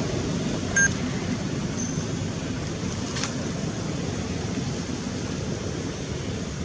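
Steady rushing background noise, with one short high-pitched beep or chirp about a second in and a faint click a little later.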